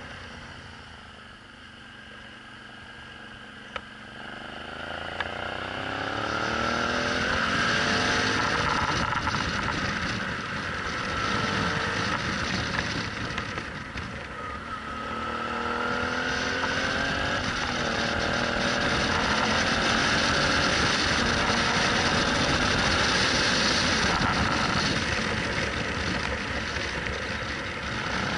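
Suzuki V-Strom 650's V-twin engine pulling out of hairpin bends. It is quiet at first, then its pitch rises about four seconds in and again around halfway, with wind rush building as speed picks up.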